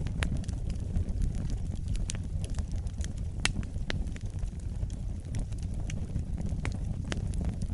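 Wood fire burning in a fireplace: a steady low rumble of the flames with sharp, irregular crackles and pops scattered throughout.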